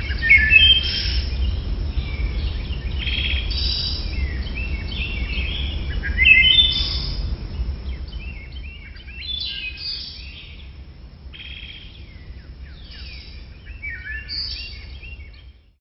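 Parrot chirping in quick runs of short, falling notes over a low steady rumble. The calls thin out after about eight seconds, and the sound cuts off abruptly near the end.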